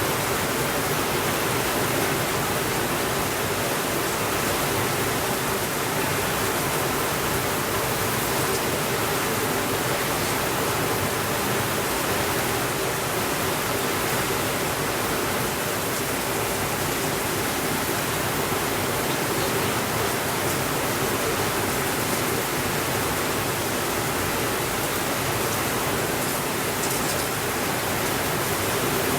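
Steady rainfall, an even hiss with no breaks or changes in level.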